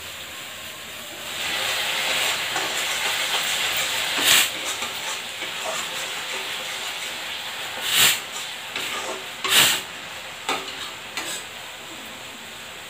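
Masala paste sizzling as it fries in oil in an iron kadai, stirred with a metal spatula. The sizzle swells about a second in and eases later, and the spatula strikes the pan sharply three times, about four, eight and nine and a half seconds in, with a couple of lighter knocks after.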